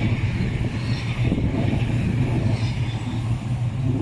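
South Western Railway passenger train running past and away along the line: a steady low hum with the rumble and hiss of wheels on rail.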